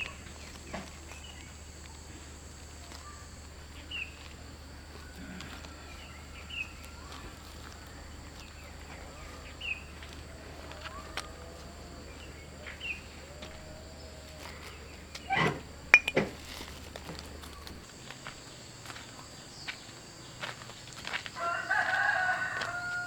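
A rooster crowing once near the end, one drawn-out call of about two seconds, over faint scattered bird chirps. Two sharp knocks come about two-thirds of the way through.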